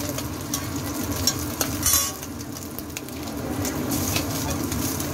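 Egg and paratha frying in oil on a large flat griddle, a steady sizzle, with sharp clinks of a metal spatula and ladle against the griddle, the loudest about two seconds in.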